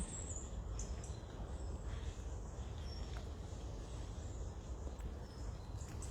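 Quiet woodland ambience: a steady low rumble under a faint even hiss, with a few faint, short high bird chirps near the start and about three seconds in.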